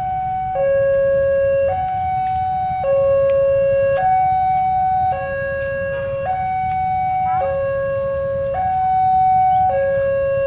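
Railway level-crossing warning alarm sounding a two-tone hi-lo pattern, a lower and a higher tone alternating about once a second: the signal that a train is approaching.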